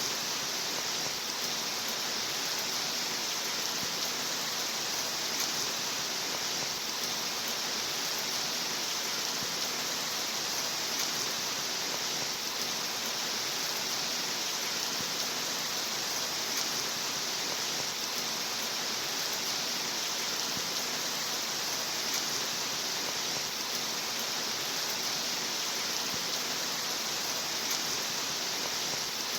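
Steady rain: a continuous, even hiss with no pauses or single standout sounds.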